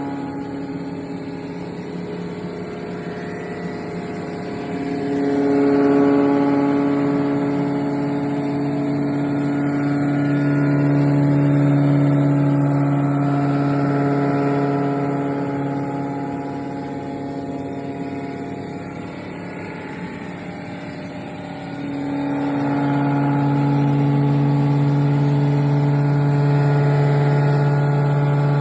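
Surface grinder running steadily as it grinds a Leyland BS4 engine block, a strong motor hum with grinding noise that swells louder and fades in slow cycles several seconds long.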